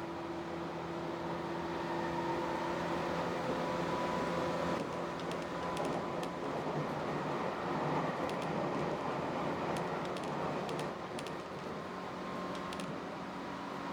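Tobu 8000 series electric train running, heard from on board: a steady rumble of wheels on rail with faint motor hum and whine tones that drift slowly in pitch, and scattered light ticks in the second half.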